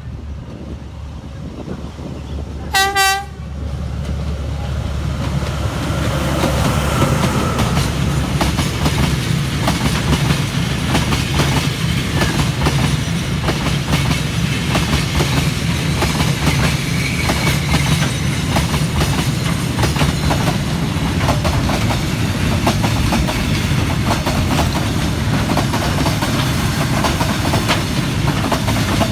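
DFH21 diesel locomotive sounds one short horn blast about three seconds in. Its low engine rumble then builds as it hauls a freight train past, with wheels clattering steadily over the rail joints.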